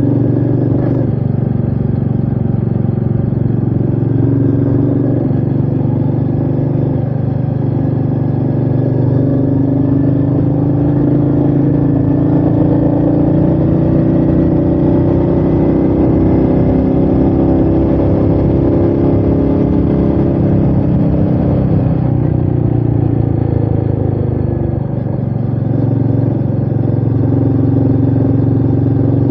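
Royal Enfield Meteor 350's single-cylinder engine running steadily under way, its note easing and picking up with the throttle. It backs off briefly near the end.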